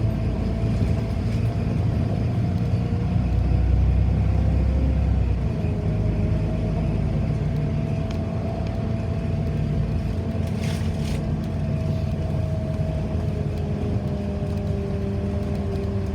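City bus heard from inside while driving: a continuous low engine and road rumble, swelling for a couple of seconds, under a steady whine that shifts slightly in pitch. A brief hiss comes about ten seconds in.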